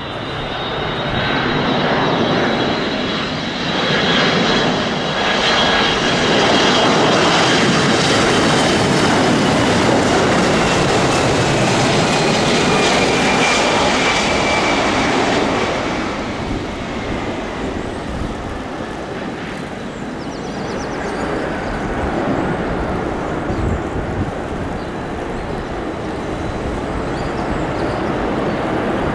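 Jet aircraft engines passing close by: a loud rush of noise with a high turbine whine that slowly falls in pitch. It dies down after about sixteen seconds and builds a little again near the end.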